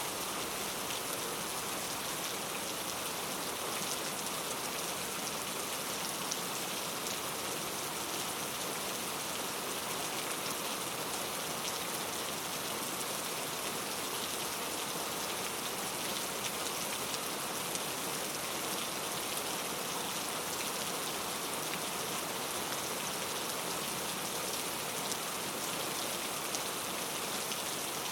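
Steady rain falling in a rainforest, an even hiss of many fine drops pattering on foliage and surfaces.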